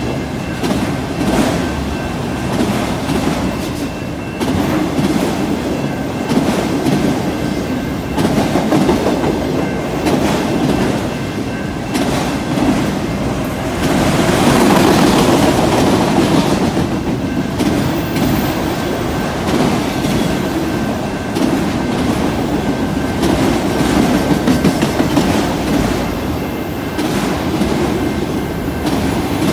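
Freight train of enclosed autorack cars rolling past, its wheels clacking over rail joints over a steady rumble. The sound grows louder for a few seconds about halfway through.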